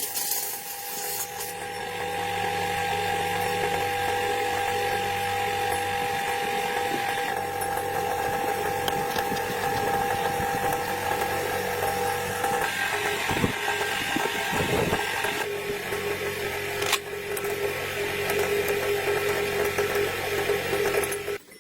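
A small power tool running steadily with a high whine, its tone stepping slightly lower about two-thirds of the way through.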